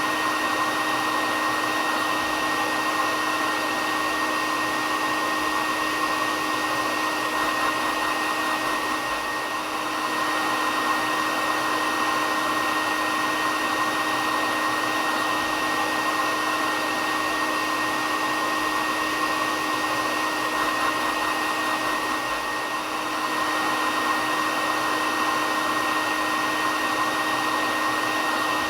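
Hair dryer running steadily: an even rushing hiss with a constant whine in it, briefly dipping slightly twice.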